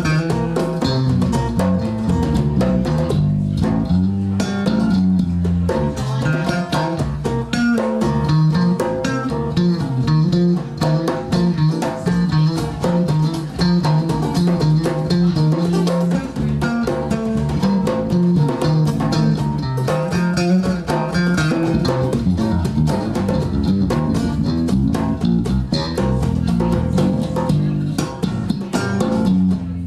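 Blues band playing an instrumental passage: guitar over a steady bass line and drums, with no singing.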